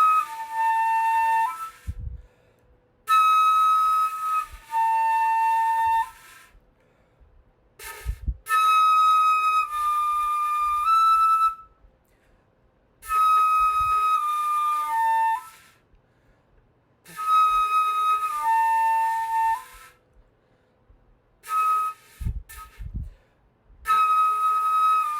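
Beginner playing a flute: about six short phrases, each mostly a higher held note stepping down to a lower one, with gaps between. The tone is breathy with a lot of air noise, the sound of a player still struggling to get a clean note out.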